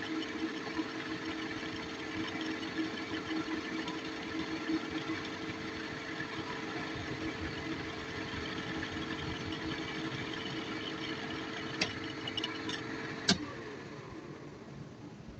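Workshop machine running with a steady hum. A few light clicks come near the end, then a sharp click, and the machine shuts off, its hum dying away.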